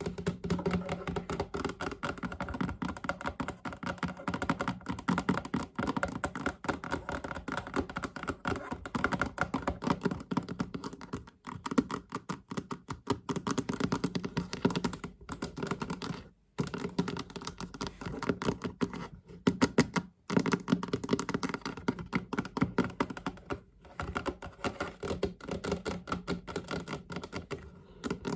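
Fast tapping on a chest: a dense, rapid run of taps with a hollow, boxy ring, broken by a few brief pauses.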